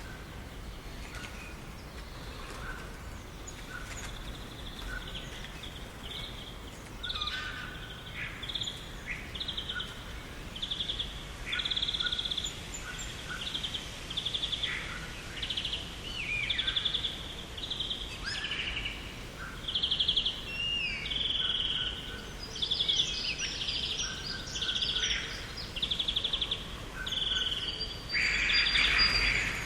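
Small birds chirping and trilling in short, quick phrases over a steady background hiss. The calls start about seven seconds in and come thicker and louder toward the end.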